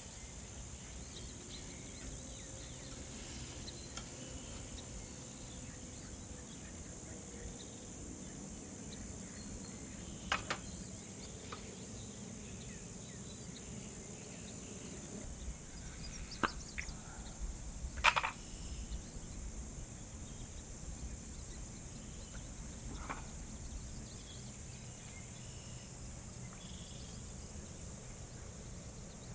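Steady high-pitched insect chirring, typical of crickets, over a low outdoor background, with a few short knocks, the loudest about eighteen seconds in.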